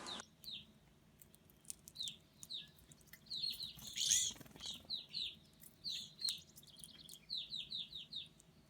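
Small songbird chirping: a string of short, high, down-slurred chirps at an uneven pace, bunched into a quicker run near the end.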